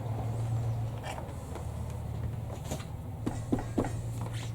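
A steady low hum with a few faint clicks and taps from small tools and parts being handled at a leatherwork bench. The taps are spaced out at first, then come closer together near the end.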